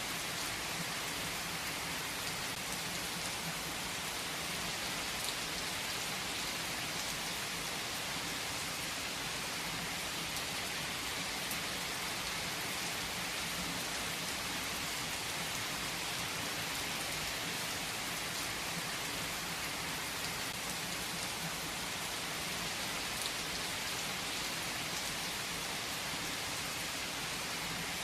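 Steady rain falling on a hard surface: an even hiss with scattered faint drop ticks.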